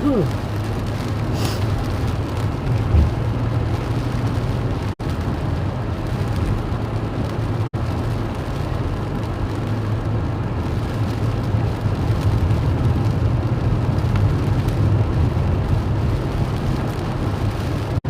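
Steady rushing noise inside a car cabin from the heater blower running on full, over a low engine hum. The sound cuts out very briefly twice.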